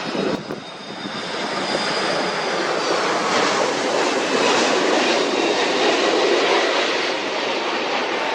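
Airplane passing low overhead: a loud, steady rush of engine noise that swells in the middle, with a high whine falling slightly in pitch over the first few seconds.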